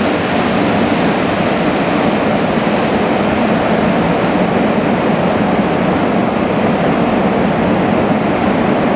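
Freight train rolling through an underground station, its wagons passing in a steady, loud rumble.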